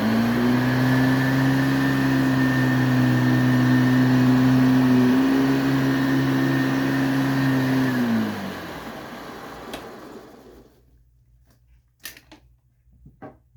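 Hoover Elite 350 direct-air upright vacuum cleaner running at full speed with a steady motor hum. About eight seconds in it is switched off and the motor winds down, falling in pitch over a couple of seconds.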